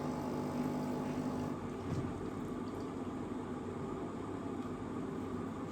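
Steady rushing of water, with a low hum under it for the first second and a half.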